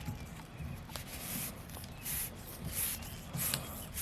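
Yellow plastic protective strip being pulled off a new wiper blade's rubber edge: several short rustling scrapes over a low background rumble.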